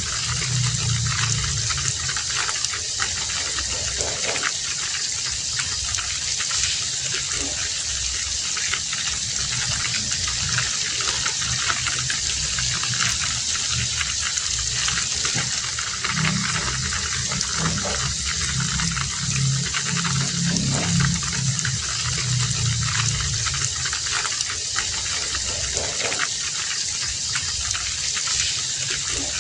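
Heavy rain falling steadily, a dense hiss with a low rushing rumble that swells twice.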